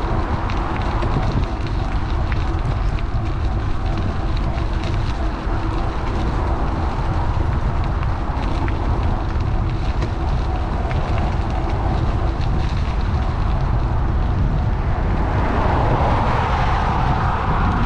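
Wind buffeting the microphone of an action camera riding on a moving electric bike: a steady low rumble with faint scattered ticks. About 15 seconds in, a louder rushing swell rises and holds.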